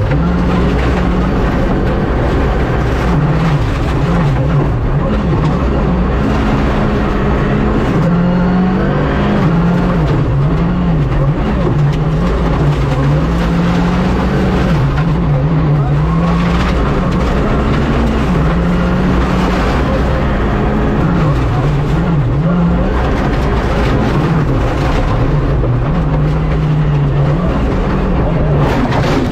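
Rally car engine driven hard on a stage, revs climbing and dropping again and again as the driver changes gear and lifts off for corners.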